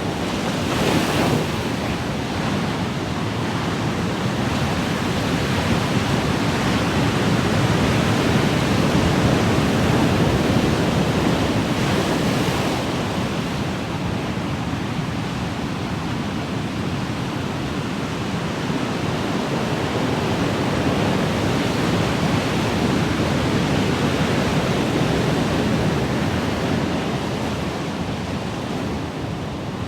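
Ocean waves washing in, a steady rushing surf that swells and eases slowly, with a brighter wash of breaking water about a second in and again around twelve seconds in.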